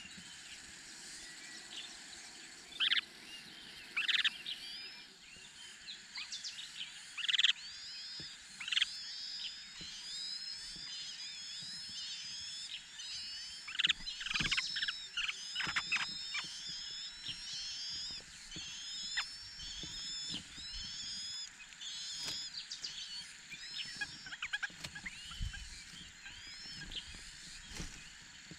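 Chinese hwamei at the nest calling: a few louder, sharp calls in the first several seconds, then many short, high, curving chirps repeated in quick succession through the middle, thinning out near the end.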